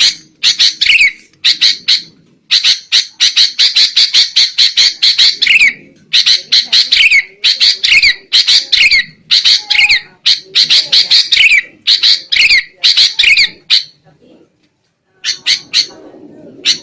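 Sooty-headed bulbuls calling noisily in fast runs of short, harsh notes with falling slurs, the agitated alarm chatter used as a trapping lure. There is a brief break about two seconds in and a longer lull near the end.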